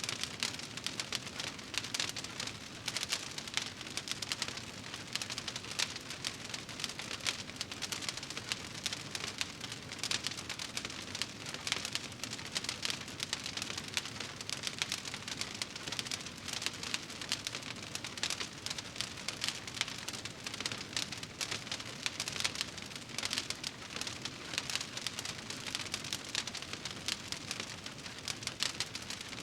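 Wood fire crackling in a fireplace: a steady stream of many small, quick pops and snaps over a soft hiss of burning.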